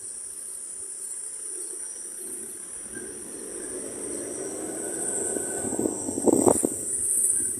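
Steady high-pitched chirring of insects. A low rushing noise swells from about three seconds in, with a few sharp knocks a little past six seconds.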